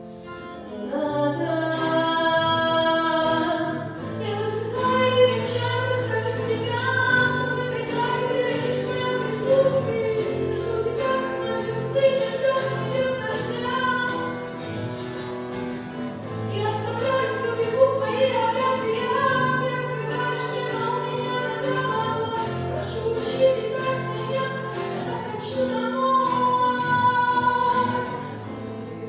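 Choir singing a Russian-language hymn, with voices holding long notes over a sustained low part.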